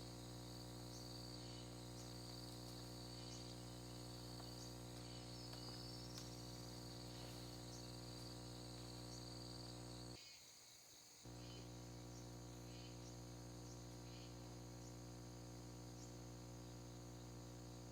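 Crickets and other forest insects buzzing in a steady high whine, with short chirps repeating at even intervals. A steady low hum runs underneath and drops out for about a second midway.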